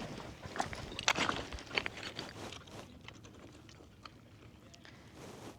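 Footsteps crunching over loose brick rubble and debris, irregular crunches that fade after about three seconds.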